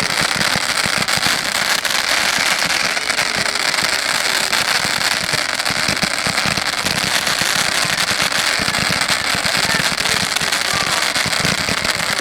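Fireworks crackling densely and without a break: a rapid, steady stream of many small pops.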